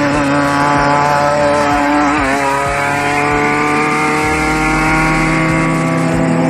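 Off-road race vehicle's engine running hard and steady, with a brief wobble in pitch about two seconds in, then the pitch slowly climbing.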